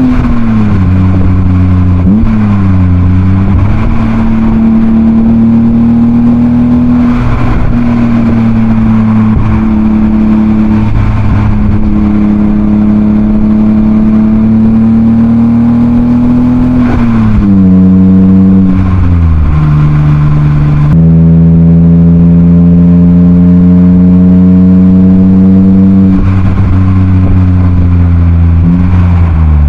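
BMW E36 328i's M52B28 2.8-litre straight-six, heard through a Schmiedmann rear silencer while driving. The revs climb slowly for long stretches and fall sharply several times, with a louder stretch about two-thirds of the way in.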